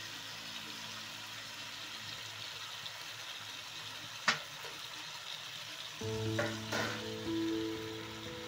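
Frying sizzle from macaroni and tomato masala in a hot pan, a steady hiss with one sharp click a little past four seconds in. Background music comes in about six seconds in, with a couple more clicks.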